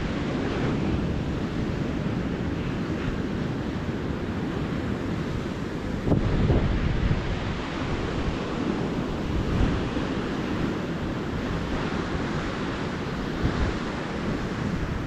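Gentle ocean surf breaking and washing up the beach, a steady rushing wash that swells louder about six seconds in. Wind rumbles on the microphone.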